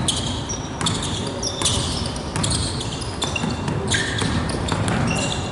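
Basketball game sounds: a ball bouncing on the court and sneakers squeaking in short high-pitched chirps, over a steady crowd murmur in a gym.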